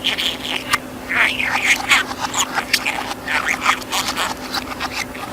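Budgerigar chattering in a fast run of chirps, squeaks and warbles, the stream of budgie chatter that its owner hears as talking, with a steady low electrical hum underneath.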